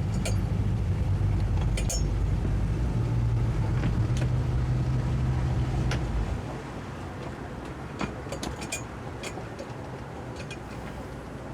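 Towboat's 200 hp Suzuki outboard motors running steadily, then throttled back about six seconds in to a quieter low run. A few light clinks sound over the engines.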